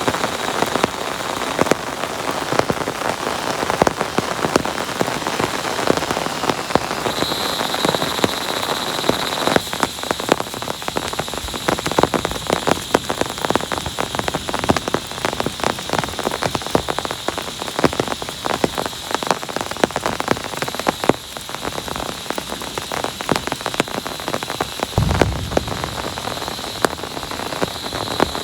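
Heavy rain falling steadily, with many sharp individual drop hits close by and a thin steady high tone underneath. There is a brief low thump near the end.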